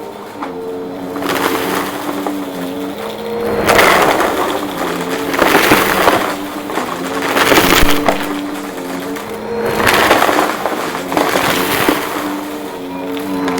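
Vacuum cleaner motor running with a steady hum that dips slightly in pitch now and then. Repeated bursts of crunching and rattling come through as crunchy debris is sucked up, with the longest stretch in the middle.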